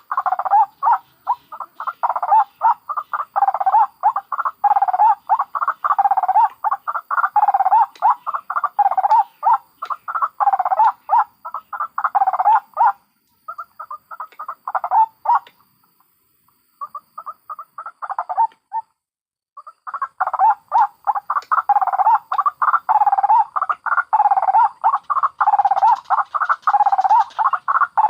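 White-breasted waterhens calling, with adult and chick calls mixed: a fast, unbroken run of repeated harsh croaking notes. The calling thins into short broken bursts about halfway through, stops briefly, and picks up again near the 20-second mark.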